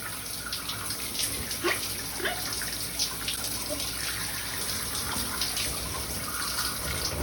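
Shower spray running steadily, with a few brief soft calls from a Quaker parrot bathing under it.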